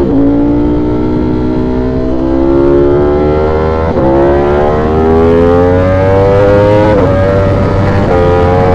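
A V4 sport motorcycle engine accelerating hard through the gears. The engine note climbs steadily, then drops sharply at each upshift, about 4, 7 and 8 seconds in.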